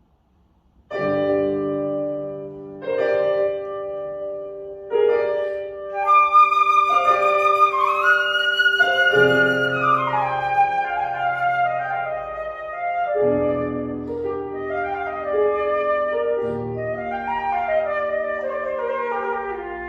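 Flute and grand piano playing classical music. After a second of near silence the piano strikes three sustained chords about two seconds apart, then the flute enters with a melody and rising and falling runs over the piano.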